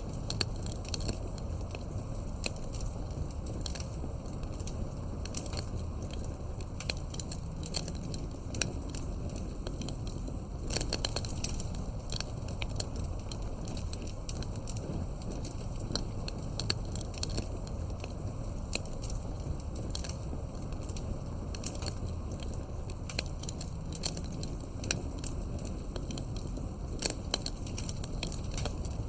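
Campfire crackling, with irregular sharp pops over a steady low rumble. There is a brief flurry of pops about a third of the way in, and again near the end.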